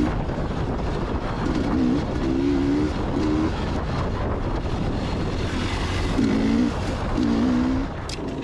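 Two-stroke dirt bike engine revving in short bursts while riding a trail, its pitch rising and dropping with each throttle blip, over a constant low rumble.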